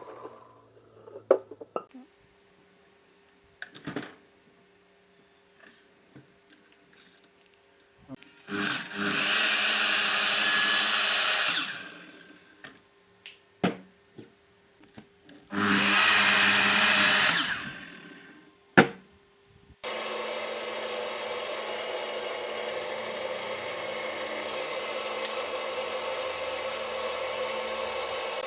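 A handheld power tool working wood. It runs in two bursts of about three seconds each, with knocks and clicks of handling between them, then runs steadily through the last third.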